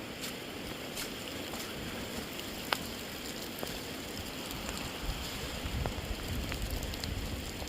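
Steady rain falling, an even hiss with scattered drops ticking close to the microphone; a low rumble on the microphone comes in about five seconds in.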